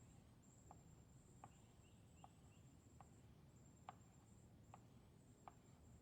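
Near silence: faint outdoor ambience with soft ticks about every three quarters of a second and a few faint chirps about two seconds in.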